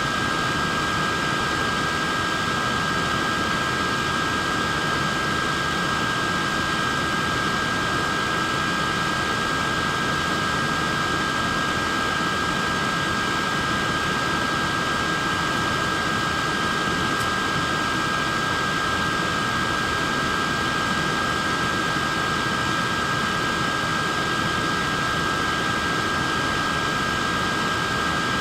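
Neck fan running steadily: an even, airy rush of fan noise with two steady high-pitched whining tones from its motor and blades.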